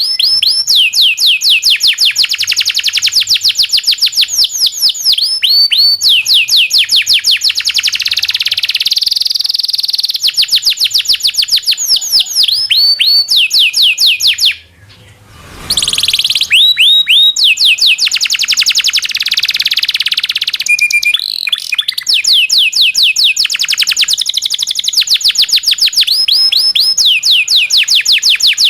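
Domestic canary singing loudly in long rolling trills of rapid, repeated falling chirps, with a short break about halfway through.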